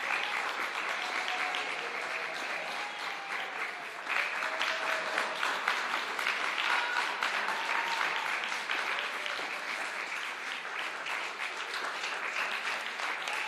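Auditorium audience applauding: sustained, dense clapping from many hands, with a few voices faintly audible in the crowd.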